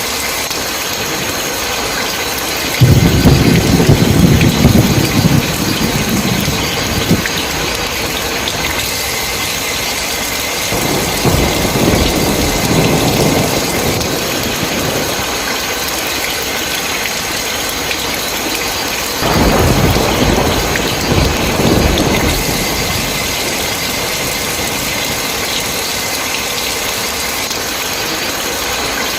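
Steady heavy rain with three rolls of thunder. The first and loudest breaks suddenly about three seconds in and rumbles for about four seconds, a fainter one follows, and a third comes in sharply about two-thirds of the way through.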